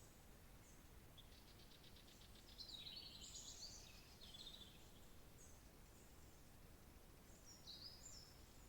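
Songbirds singing over a faint steady hiss: a rapid trill about a second in runs into a warbling high phrase, and another short high phrase comes near the end.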